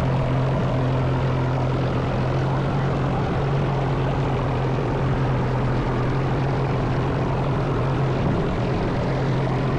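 Electric kayak motor and propeller running with a steady, unchanging hum over a rushing noise, still under power while the swamped kayak's steering has failed.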